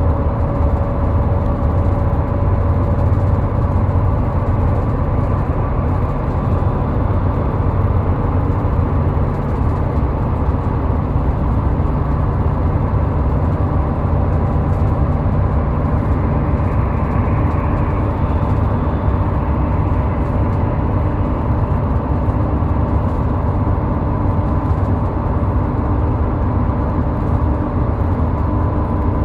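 Steady low rumble of road traffic on a highway, with faint steady tones, and no sudden events.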